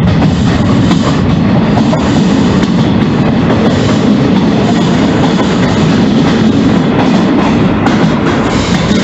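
A train running along the track, heard from on board: a loud, steady rumble and rattle of the coach, with occasional clacks of the wheels over rail joints.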